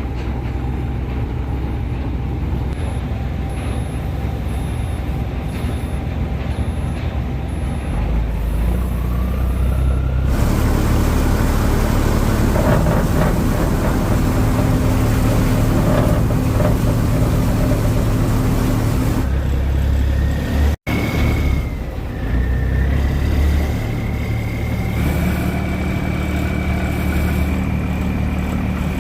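Boat engine running steadily, its pitch rising for a couple of seconds about eight seconds in; the sound changes abruptly about ten seconds in and again after a brief break about twenty-one seconds in.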